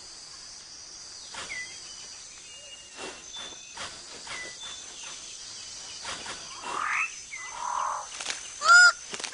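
Rainforest birds calling and whistling here and there over a steady high insect hum, then loud, repeated honking calls near the end.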